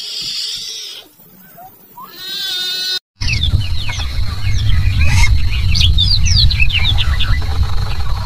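Animal calls: a drawn-out cry fades about a second in and a shorter rising call follows. After an abrupt cut comes a flurry of short high chirps over a loud, steady low rumble.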